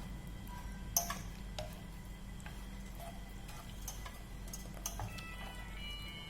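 Food frying in hot oil, with irregular sharp pops and crackles over a steady low hum.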